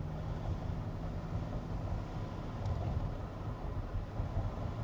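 2005 Chrysler Crossfire's V6 engine running as a steady low drone under tyre and road noise, heard from inside the cabin while driving.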